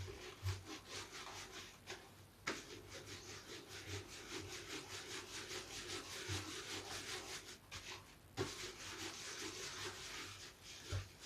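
A large soapy bath sponge being rubbed and kneaded with soap scraps: a quick, even run of rasping scrubbing strokes, with a couple of sharper clicks among them.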